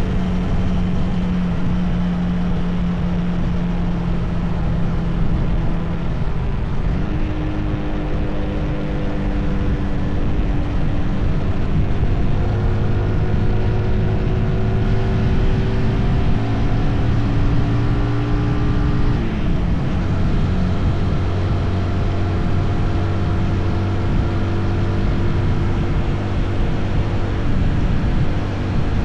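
Motorcycle engine running at speed over steady wind and road noise. Its pitch steps up about a quarter of the way in, climbs slowly, drops about two-thirds of the way in, then holds steady.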